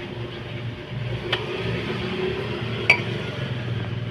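Two light metallic clinks of small parts or tools, about a second and a half apart, over a steady low background hum.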